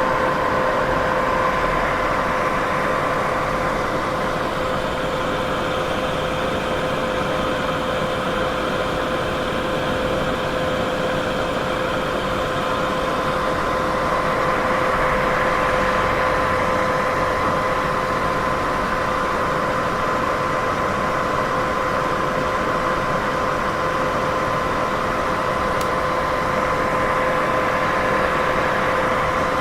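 Steady white noise: an even, unbroken hiss with a constant hum of two tones underneath, unchanging in level.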